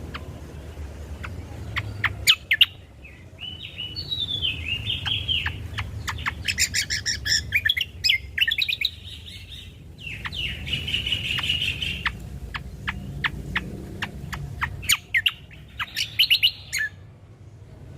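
Cucak kombo singing: rapid warbled phrases and long trills mixed with many sharp chip notes, over a low steady hum.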